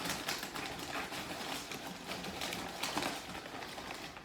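Close-miked chewing of Chicken McNuggets: a steady run of small wet clicks from the mouth.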